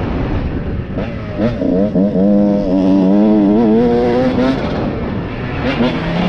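Dirt bike engine revving up and holding a steady high note, with a second rev climbing near the end, under rushing wind on a helmet-mounted microphone.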